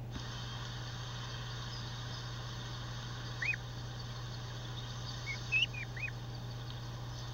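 Soft outdoor ambience with a steady hiss and low hum, broken by short high bird chirps: one about halfway through, then a quick run of three or four a couple of seconds later.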